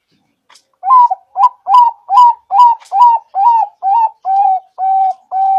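Zebra dove (perkutut) singing: a rapid run of about a dozen short coos, a little over two a second, starting about a second in. The early notes rise and fall in pitch; the later ones flatten out and grow longer.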